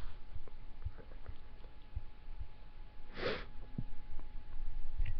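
A person chewing food close to the microphone: soft wet mouth clicks, and one short sniff through the nose about three seconds in.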